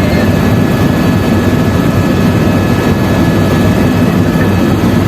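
Helicopter in flight: loud, steady engine and rotor noise with a faint constant whine above it.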